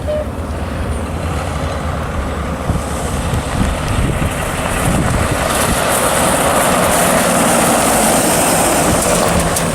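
Fire engine driving, its engine and road noise growing louder from about four seconds in as it comes closer.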